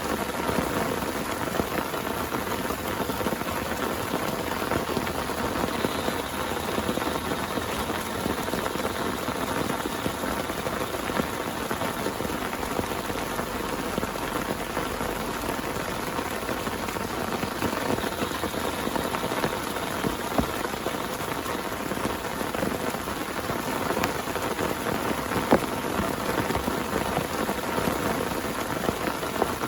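Heavy rain falling on a tent: a steady, dense patter of drops with a few louder single hits.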